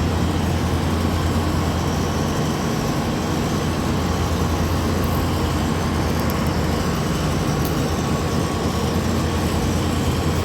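Steady low mechanical hum with an even rushing noise over it, from running air-conditioning machinery such as a neighbouring rooftop unit's compressor and fans.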